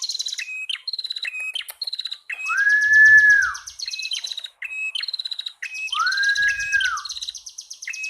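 A male and a female prenjak (prinia) calling together: a fast, buzzy, chattering high trill with sharp repeated chip notes. Twice a longer, lower arched whistle comes in, louder than the rest.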